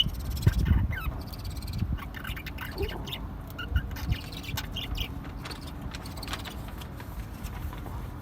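Parrots giving short, scattered calls and squawks, over low thumps and rumble.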